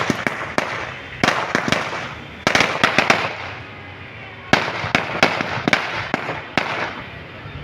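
Aerial fireworks going off from a multi-shot cake: a run of sharp bangs at uneven spacing, sometimes two or three a second, each trailed by crackling.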